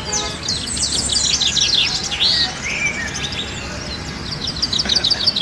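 Budgerigars chattering in a continuous stream of high chirps and quick warbled sweeps, with a fast run of repeated short chirps near the end.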